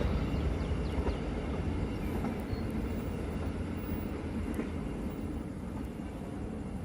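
Train running on the rails: a steady low rumble of wheels and cars, easing slightly toward the end.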